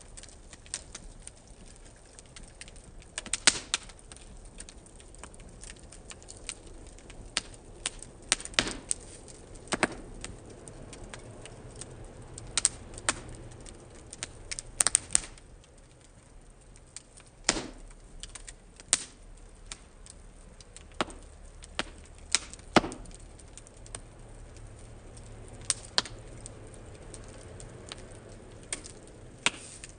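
Wood fire in a fire-pit stand crackling, with irregular sharp pops and snaps, a few louder ones standing out, over a faint low rumble of the flames.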